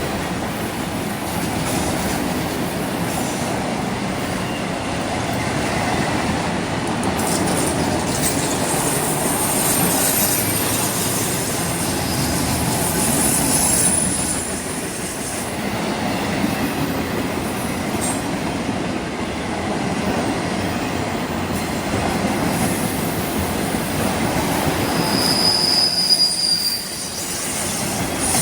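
Train rolling past, steady wheel-on-rail noise with high-pitched squeals from the wheels, one clearer squeal about three-quarters of the way through.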